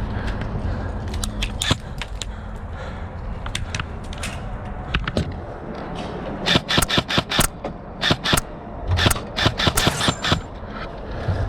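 Airsoft guns firing: scattered single shots, then several rapid strings of sharp cracks in the second half.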